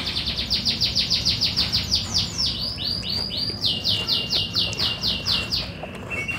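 A songbird singing a fast trill of repeated downslurred chirps, about seven a second. The trill changes pitch partway through and stops shortly before the end.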